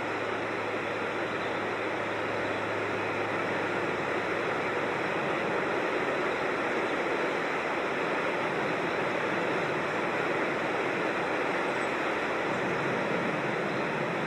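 Creek water rushing over rocks in a steady, even stream.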